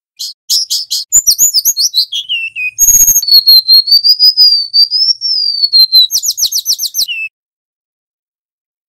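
Golden-bellied gerygone (remetuk laut) singing at a strong, clear level. It starts with quick high chirps, moves into a long wavering whistle a few seconds in, then a rapid run of notes that ends on a short falling note.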